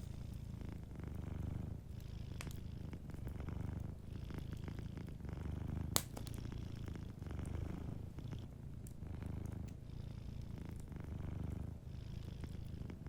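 Domestic cat purring in slow, even swells that rise and fall with each breath. Scattered small crackles and pops from a wood fire sound over it, with one sharper pop about six seconds in.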